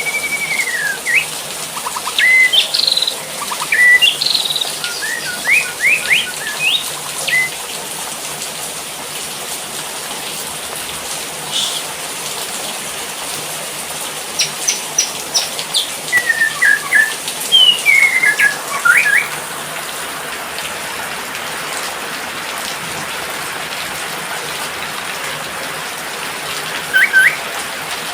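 Steady hiss of falling rain with a songbird chirping and whistling over it in short bursts: a string of quick rising chirps and whistles in the first several seconds, another cluster in the middle, and a couple of notes near the end, with rain alone in between.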